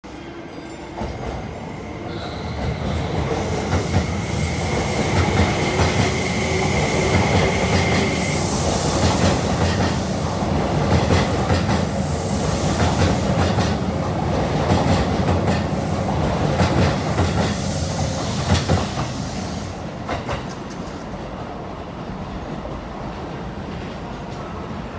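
Electric train passing by, its wheels clicking over the rail joints. The noise swells in over the first few seconds, stays loud, then falls away about three-quarters of the way through.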